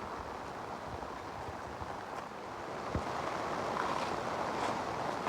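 Steady rain falling, a constant even hiss that grows slightly louder about halfway through.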